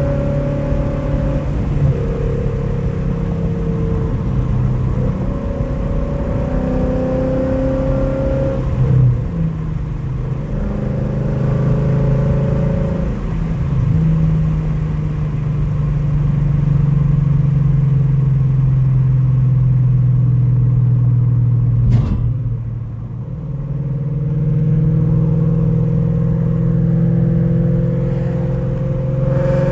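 2017 Ford Mustang GT's 5.0 V8, fitted with catless longtube headers and a Corsa exhaust with an X-pipe, heard from inside the cabin pulling under throttle. The pitch rises and drops back several times at gear changes, holds steady for a stretch in the middle, then a sharp click and brief dip in loudness about two-thirds in, before the engine climbs again near the end.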